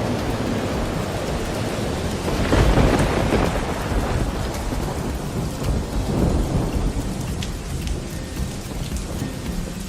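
Rain falling with rumbles of thunder: a loud roll about two and a half seconds in and a smaller one around six seconds. After that the rain carries on more quietly, with scattered drop ticks.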